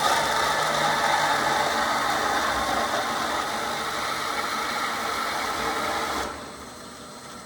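FMB Pegasus three-phase swivel bandsaw running, a steady mechanical noise from the motor and blade drive with some rattle. A little over six seconds in, the noise drops off sharply to a much quieter hum.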